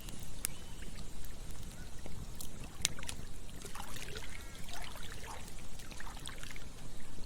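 Campfire crackling with occasional sharp pops, over a low rumble and a trickling, babbling stream that gurgles more busily from about halfway through.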